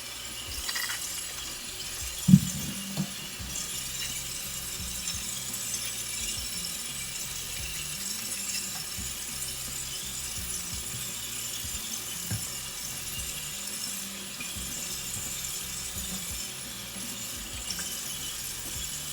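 Kitchen tap left running, a steady faint hiss, with occasional clinks of dishes and utensils and a sharp knock about two seconds in.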